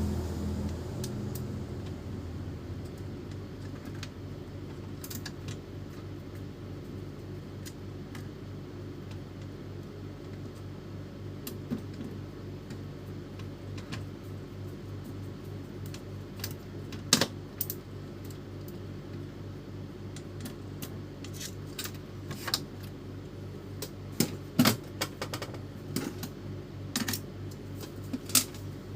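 Scattered small clicks and metallic taps of printer parts and tools being handled during a repair, over a steady low hum. The clicks come more often in the second half.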